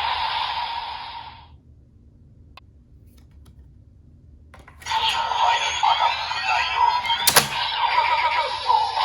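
Electronic sound effects from a CSM Decadriver ver.2 toy belt: one effect fades out, a faint click follows, and about halfway through a new effect starts with gliding tones and a sharp click.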